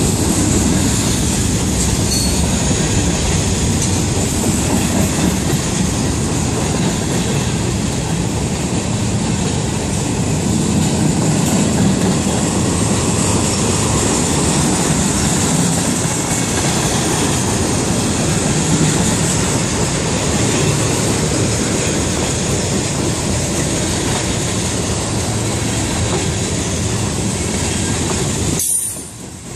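Freight train cars rolling through a railroad crossing: a steady rumble and rattle of steel wheels on the rails, with a brief dropout near the end.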